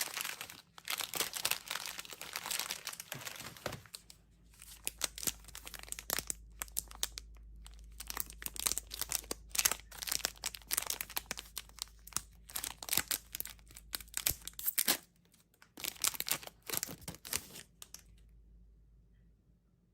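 Plastic Warheads candy packaging being crinkled and torn open by hand: dense, irregular crackling with sharp snaps, stopping about two seconds before the end.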